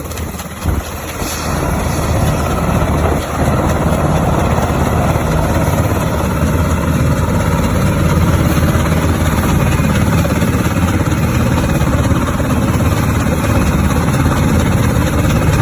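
Rescue helicopter running steadily, a loud low engine and rotor noise with a brief dip about a second in.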